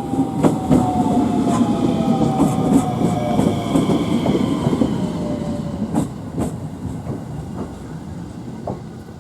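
Electric train running through the station, its wheels clacking over rail joints, with a motor whine that slowly falls in pitch. The rumble is loudest about a second in and fades as the train moves away.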